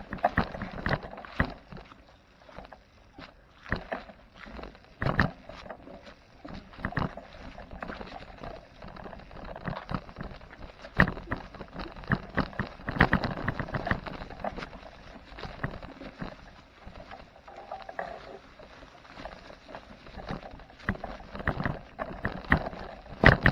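Footsteps crunching and rustling through the woodland floor, irregular knocks and scuffs mixed with handling noise on the phone's microphone.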